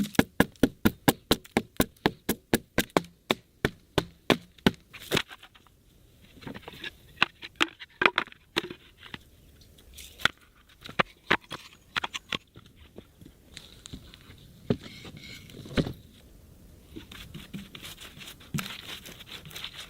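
Axe chopping into a log, about three quick, even blows a second, as the log is hollowed out. After about five seconds the chopping stops, giving way to scattered knocks and scraping of wood.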